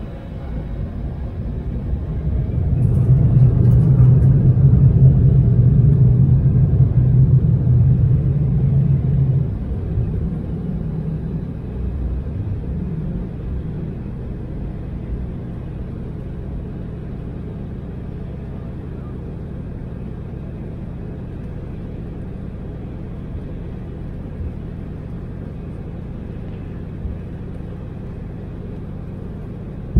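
Embraer 175 airliner heard from the cabin during takeoff: a heavy rumble with a low engine hum builds to its loudest over the first few seconds, drops off sharply about nine to ten seconds in, and settles into a steady, quieter jet drone.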